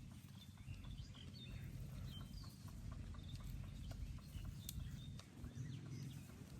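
Small birds chirping in short, quick calls over a low steady rumble.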